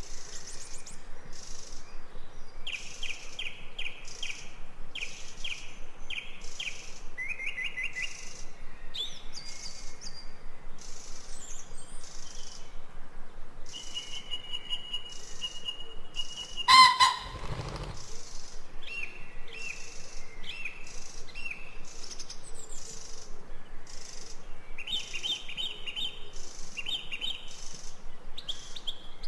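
Forest birds chirping and calling, with many short repeated notes and trills and a held whistled note. About halfway through comes one brief louder sound with a low thump.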